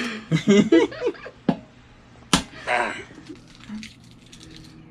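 Brief voices, then a single sharp smack about two and a half seconds in, followed by a short burst of noise.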